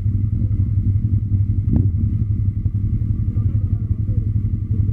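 Motor vehicle engine running steadily, a continuous low drone with a rapid flutter, with one sharp click about two seconds in.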